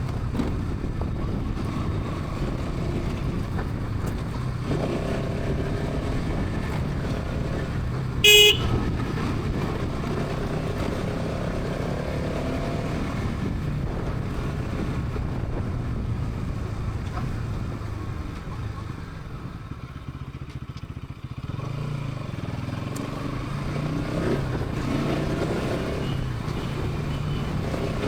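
Bajaj Pulsar NS 200's single-cylinder engine and exhaust running steadily at highway speed. A short, loud vehicle horn honk sounds about eight seconds in, and the engine note drops away for a couple of seconds near the two-thirds mark before picking up again.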